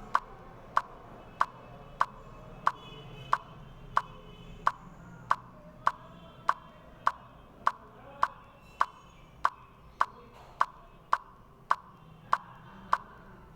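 Steady, even ticking of about three ticks every two seconds, a clock-like tick.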